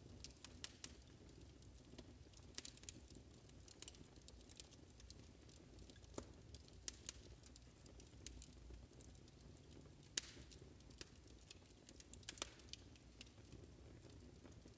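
Wood fire crackling: irregular small pops and clicks over a faint low rumble, with a few sharper pops, notably about ten seconds in and again about two seconds later.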